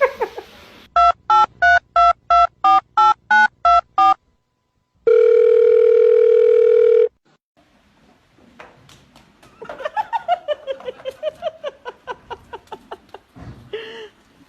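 Telephone keypad tones: about eleven quick two-tone dialing beeps, then after a short pause a single steady ringing tone held for about two seconds. Later a fast run of clicking pulses follows, its pitch rising and falling.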